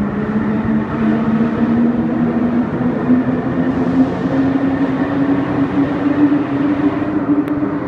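Paris Métro Line 14 rubber-tyred automatic metro train running, its motor whine rising slowly in pitch as it gathers speed over a steady rolling rumble.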